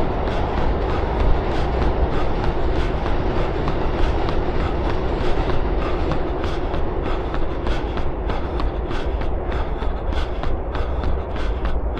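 Running footsteps striking pavement at a steady cadence of about three steps a second, over a steady low rumble.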